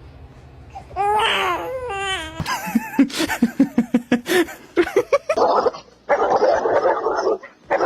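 Laughter in quick rhythmic bursts, after a high wavering cry about a second in; breathy noisy sounds follow near the end.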